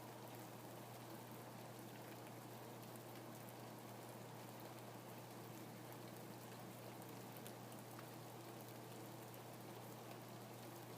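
Steady, faint rain falling, with scattered soft drop ticks.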